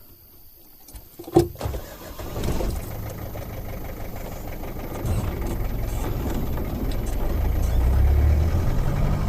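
A sharp knock about a second and a half in, then a Land Rover's engine starts and runs, its low rumble growing louder as the vehicle drives off.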